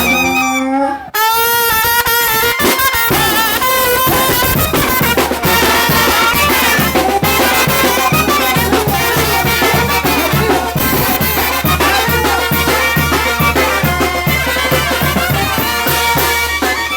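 Brass band music: trumpets, saxophones and trombones over a steady drum beat. About a second in, the band briefly drops to a gliding held note, then the full band comes back in.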